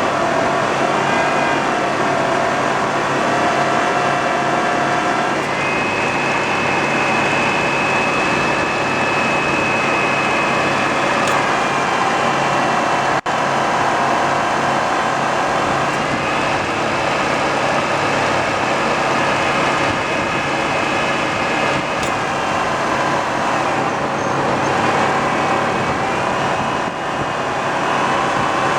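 2002 Buick Regal's 3.8-litre V6 running, with a high whine from the AC compressor that comes in and fades out twice as the compressor engages. This is the noise the owner is documenting when the compressor kicks on.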